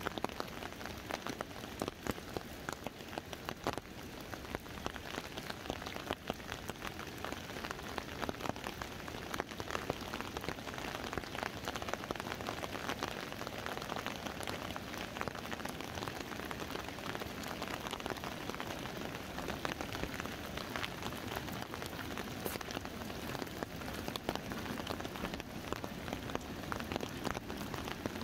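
Rain falling on an umbrella held overhead: a steady hiss dotted with many separate, sharp drop clicks.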